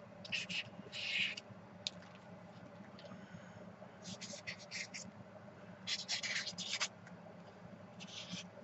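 Quick scratchy strokes of a drawing tool on a paper journal page, coming in short clusters several times.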